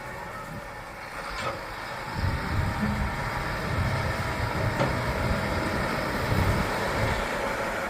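Heavy farm machinery engine running steadily, with a deeper low rumble building up about two seconds in.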